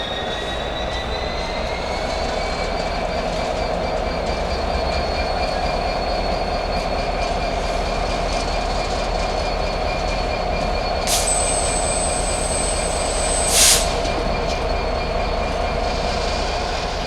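A train running through the station, with a steady rumble and a continuous high-pitched wheel squeal on the rails. From about 11 seconds in, a shorter, very high thin tone sounds for about two and a half seconds, ending in a sharp burst that is the loudest moment.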